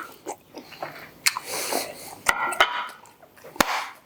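A person eating close to the microphone: chewing and mouth sounds, with four sharp clicks.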